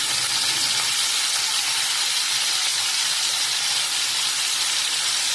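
Chicken pieces frying in butter and oil in a pan, a steady loud sizzle just after being turned to brown the other side.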